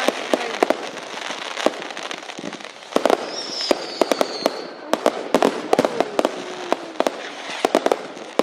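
Fireworks going off: a rapid, irregular run of sharp bangs and crackling, with a high whistle that falls slightly in pitch around three seconds in.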